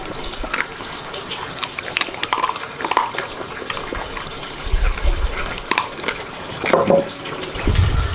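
Water splashing and pouring, with scattered light clicks and knocks.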